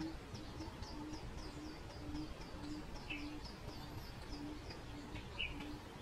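Birds calling: a quick run of high, down-slurred chirps, about three a second, that stops a little over four seconds in. Under it runs a steady series of short low hoots, a little over two a second. Two brief sharper calls stand out, about three seconds in and near the end.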